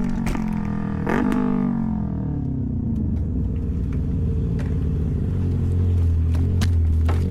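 A vehicle engine dropping in pitch over the first couple of seconds as it slows, then settling into a steady low drone with scattered clicks and knocks.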